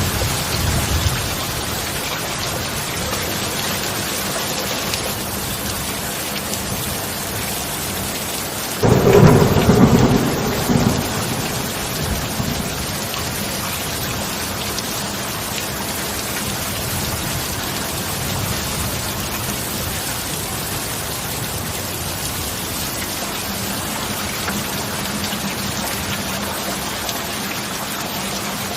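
Steady heavy rain. About nine seconds in, a sudden loud thunderclap rumbles for about three seconds, and a fainter rumble of thunder comes near the start.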